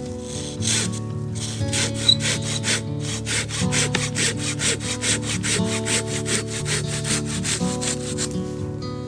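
Hand saw cutting through wood in quick, even strokes, about four a second, over background music.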